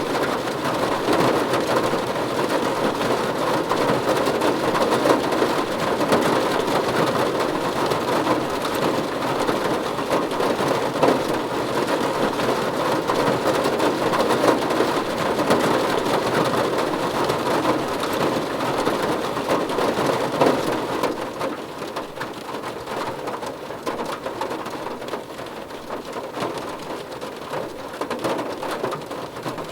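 Heavy rain falling on a car's roof and windows, heard from inside the cabin as a dense, steady patter of drops. It eases somewhat about two-thirds of the way through.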